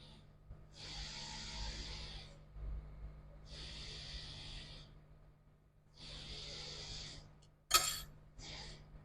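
Three bursts of hissing, each about a second long with short gaps between, then a sharp click near the end followed by a brief hiss.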